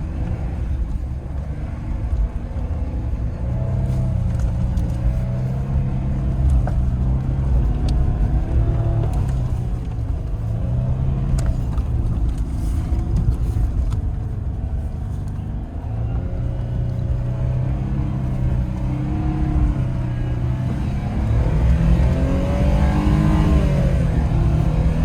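Four-wheel-drive truck's engine running steadily under load at low revs, its pitch wavering, then rising near the end as it is revved harder.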